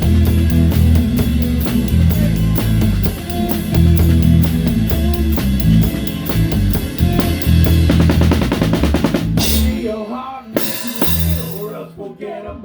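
Live rock band, a drum kit with a towel-damped snare, bass and electric guitars, playing the last bars of a song: a fast drum fill about eight seconds in, a short break, then a final hit with a held bass note near the end.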